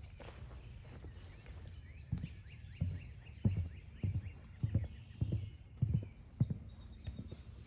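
Footsteps on a forest trail: about eight even, dull steps roughly every 0.6 seconds, starting about two seconds in, over a low steady rumble.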